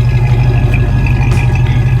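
1969 Chevrolet truck's engine idling steadily with an even, low, fast pulse.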